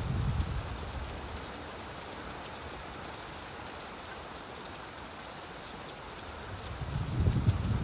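Steady rain falling, with a low rumble of thunder dying away in the first half-second and another rolling in near the end.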